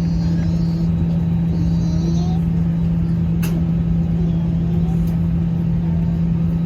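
Steady drone of an Airbus A320 cabin before takeoff: air-conditioning and engine hum with a strong constant low tone. Faint passenger voices in the background, and one sharp click about three and a half seconds in.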